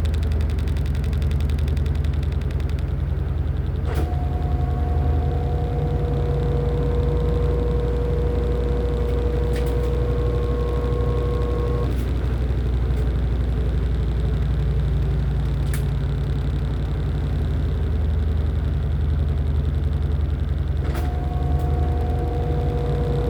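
LG top-loading pulsator washing machine running with a steady low hum. A higher whine comes in with a click about four seconds in, stops about halfway through, and starts again with a click near the end.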